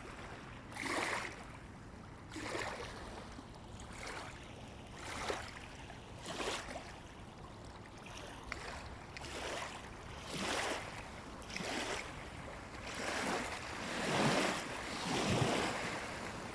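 Small waves of the Daugava river lapping and splashing, a wash about every second or so, growing louder near the end.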